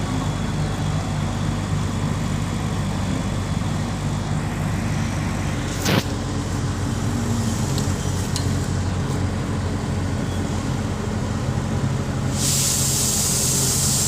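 Heavy crane's diesel engine running steadily, with a single sharp knock about six seconds in and a steady hiss that starts near the end.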